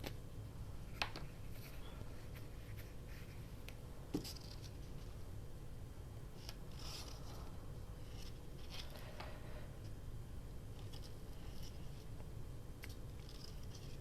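Hands working paper at a craft desk: soft scattered rubbing and rustling, as of a glue stick and paper, with two sharp clicks about a second and about four seconds in, over a low steady hum.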